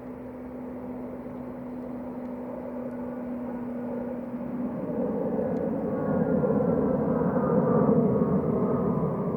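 Eurofighter Typhoon's twin EJ200 turbofans on landing approach: a steady hum gives way about five seconds in to a louder jet rumble with a high whine, growing loudest near the end as the jet comes close.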